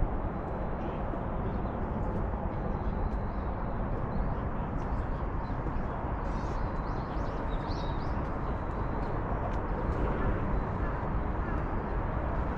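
Steady outdoor background noise, with a few faint bird chirps about six to eight seconds in.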